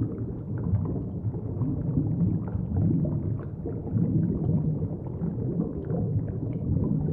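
Muffled underwater ambience picked up by a submerged camera: a steady low rumble of moving water, with faint scattered ticks.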